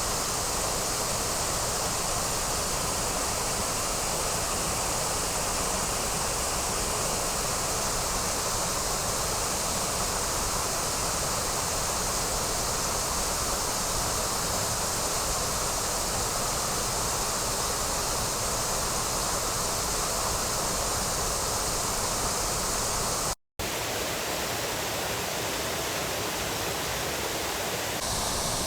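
Steady rush of water from a waterfall pouring into its pool, an even roar with no pauses, broken by a split-second gap about three-quarters of the way through.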